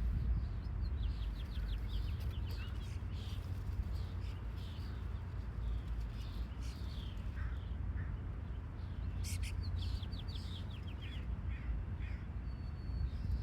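Birds calling outdoors, including two runs of quick, high, repeated chirps, over a steady low rumble.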